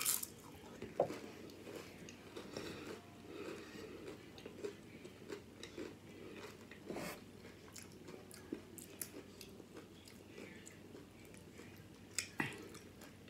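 Close-up chewing and crunching of loaded Flamin' Hot Doritos nachos, with sharp crunches as chips are bitten. The crunches are loudest right at the start, about a second in, around seven seconds and near the end.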